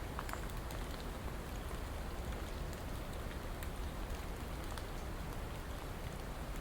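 Steady rain, with scattered light drop ticks.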